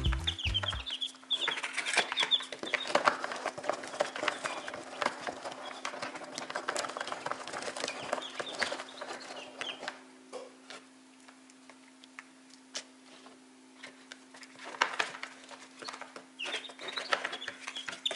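Newly hatched chicks peeping in short high cheeps, over the rustle and crackle of straw bedding being stirred by hand through the first half. It goes quieter in the middle, and the peeping picks up again near the end. A faint steady hum runs underneath.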